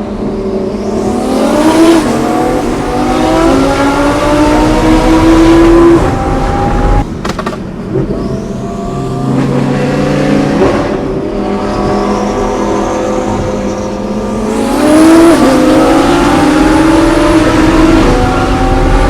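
High-performance car engine accelerating hard, its pitch climbing repeatedly with sudden drops between the pulls, as at gear shifts or on a fresh run.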